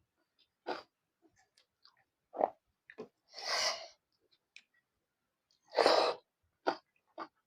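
Close-miked eating sounds of a person chewing fried pork with rice: short wet smacks and clicks, with two longer noisy rushes about three and a half and six seconds in, the second the loudest.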